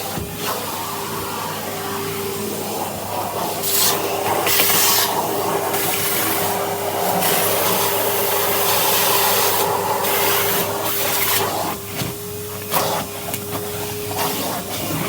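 Vacuum cleaner with a brush attachment running, its motor holding a steady whine under the rush of air. The rushing grows louder in stretches, about four and eight seconds in, as the brush is worked along.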